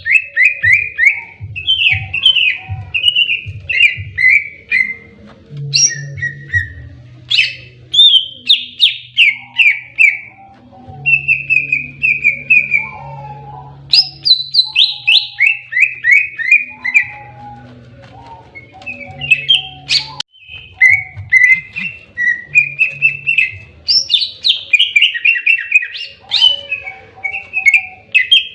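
Cucak ijo (greater green leafbird) singing its aggressive 'fighting' song: loud, fast runs of sharp chirping notes that step down in pitch, repeated in phrases with brief pauses.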